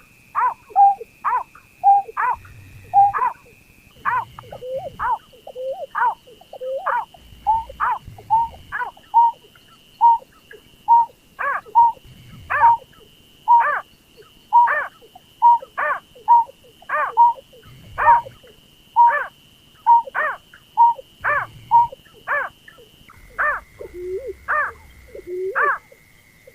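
Repeated calls of the rice-field bird known as berkik or pekung, used as a trapping lure: short notes, about one to two a second, each falling quickly in pitch. A faint steady high tone runs behind them and shifts pitch twice.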